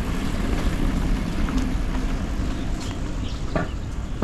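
Steady outdoor street ambience: a low rumble of distant traffic with wind on the microphone, and a few faint clicks.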